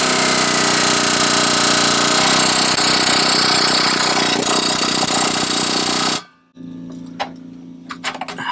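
Power tool running continuously against the van's exhaust pipe, a loud, steady rattling noise that cuts off abruptly about six seconds in. A few light clicks and taps follow near the end.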